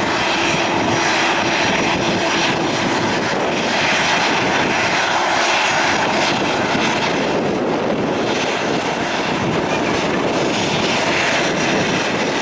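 Aircraft engines running loud and steady, an even noise with a slight slow swell in level.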